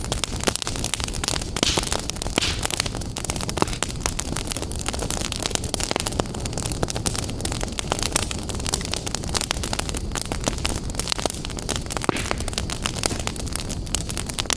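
Wood fire in a fireplace crackling: a dense, continuous stream of sharp pops and snaps over a steady low rush.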